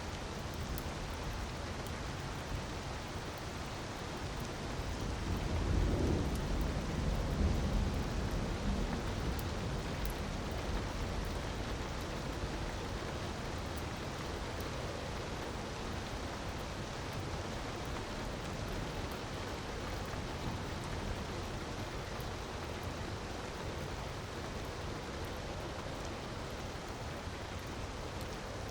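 Steady rush of falling water with faint crackles from a wood fire. A low rumble swells about six seconds in and dies away a few seconds later.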